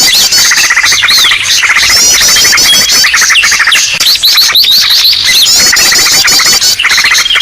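Bird-lure (pikat) recording of a noisy mixed flock of small birds: many chirps, fast trills and short sweeping whistles overlapping loudly without a break, the busy commotion played to draw wild birds in.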